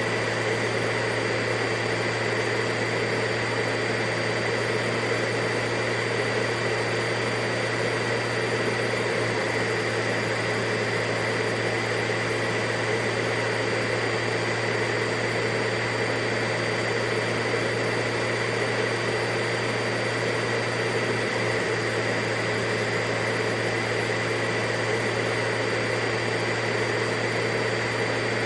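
Vacuum cleaner motor running steadily, a continuous rushing noise with a deep hum and a high whine that never change.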